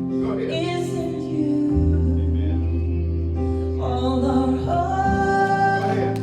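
Live church worship music: a band with sustained keyboard chords and bass, and a woman's voice singing the melody.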